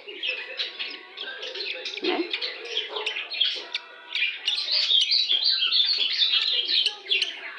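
Young fledgling bird chirping, a quick, continuous stream of short high chirps that grows louder and denser about halfway through.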